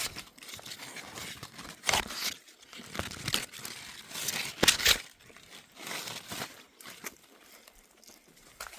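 Irregular rustling and crackling of leaves and branches being handled, with louder crunches about two seconds in and again just before the five-second mark.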